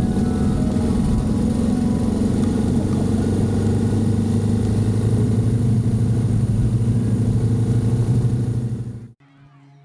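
Motorcycle engine running steadily under way, with road and wind noise; it cuts off abruptly about nine seconds in.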